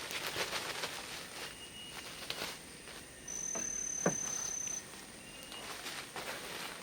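Rustling and footsteps on forest ground against a steady very high insect drone. Midway a clean high-pitched note is held for about a second and a half, with a quick downward sweep near its end.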